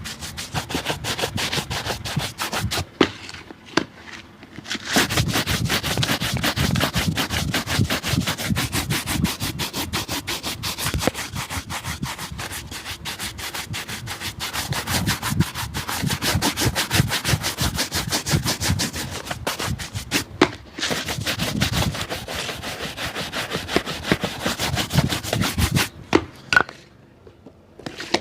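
Rapid back-and-forth rubbing strokes on a shoe during its restoration, scrubbing at a fast, even pace, with a couple of short pauses and a stop near the end.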